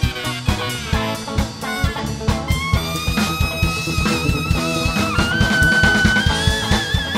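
A band playing, with a steady drum-kit beat and, from about two and a half seconds in, a long held lead note with vibrato that steps up in pitch twice.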